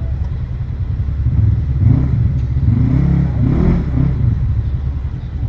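Off-road vehicle engine running with a steady low rumble. From about a second in it revs up and down for a few seconds.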